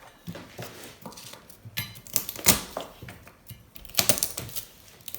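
Irregular clicking and clattering of small hard objects being handled, with louder knocks about two and a half seconds in and again around four seconds.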